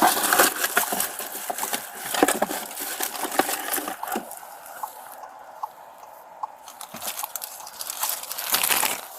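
Rustling, crinkling and small clicks of items being handled and rummaged through close to the microphone, with a quieter stretch in the middle.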